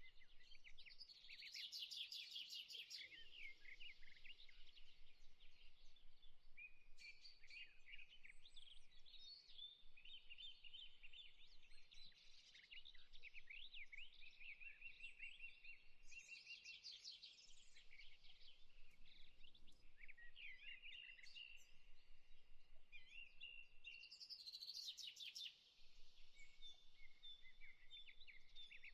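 Faint chorus of songbirds, many quick chirps and trills overlapping without a break.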